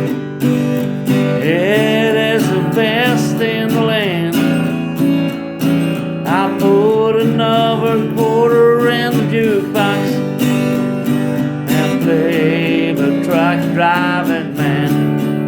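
Acoustic guitar strumming a country song while a singer holds long, wavering notes.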